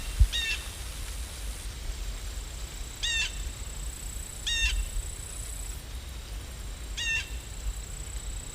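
A bird calling: four short calls a couple of seconds apart, over a low steady rumble. A brief dull thump just after the start is the loudest sound.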